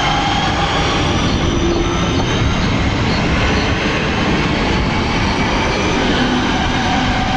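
A London Midland electric multiple unit running past and away along the line: a steady loud rumble of wheels on rail with faint high tones drifting slightly lower over it.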